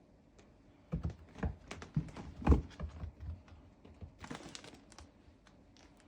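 A quick, irregular run of light taps and knocks, loudest about two and a half seconds in, followed a little after four seconds by a short scratchy rustle and a few faint ticks.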